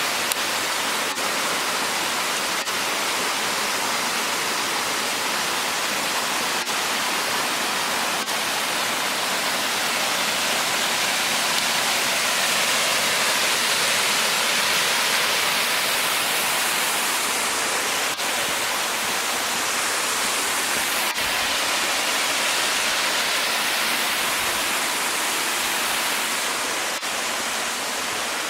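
Water of a cascading waterfall rushing steadily over rocks, a dense, even rush that swells slightly midway.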